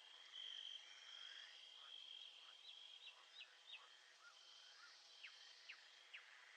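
Faint nature ambience of birds chirping in short, quick notes over a steady high trill that breaks off now and then. There is a run of quick notes about three seconds in and three sharp downward chirps near the end.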